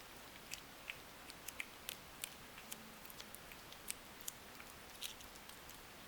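A cat eating, with faint, irregular small crunches and clicks over a quiet background hiss.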